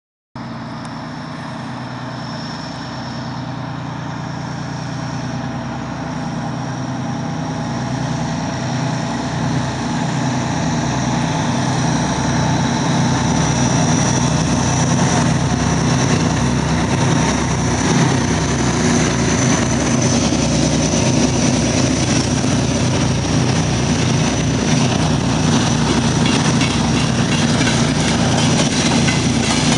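Diesel locomotives hauling a train approach, their engines running with a steady low drone that grows steadily louder. In the second half, rhythmic clacking of wheels over rail joints joins in and builds.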